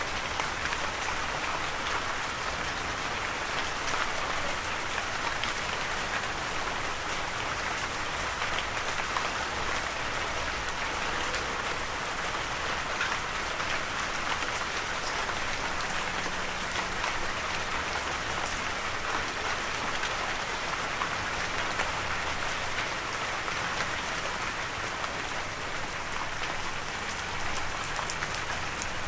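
Steady rain falling and pattering on a surface, an even hiss of many fine drops with no break.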